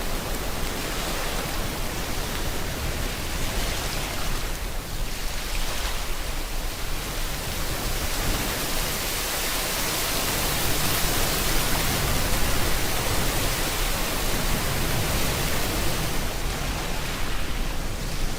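Steady rain mixed with ocean surf, an even rushing hiss that swells a little louder about ten seconds in as a wave comes in.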